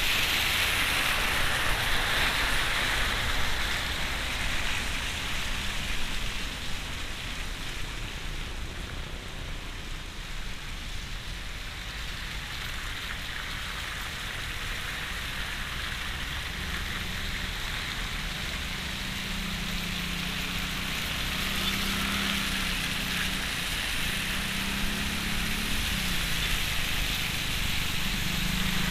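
Rain falling on a moving car's roof and windscreen, heard from inside the cabin, over tyre and road rumble on the wet road. A low steady hum joins in over the second half.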